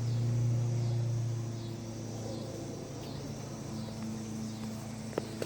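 A vehicle engine running at a steady low drone, loudest in the first second or so and then easing off, with insects calling in repeating high pulses about once a second.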